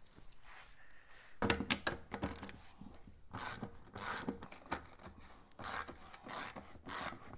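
Hand ratchet wrench clicking in a run of short strokes as the bolts holding a Polaris Ranger's fuel tank are backed out; they turn easily, not seized with rust.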